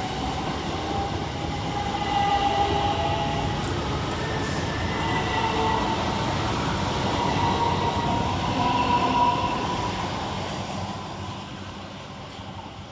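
Two coupled Southern Class 377 Electrostar electric multiple units pulling away from the platform: a running rumble with a traction-motor whine that rises slowly in pitch as they accelerate, then fades over the last few seconds as the train draws away.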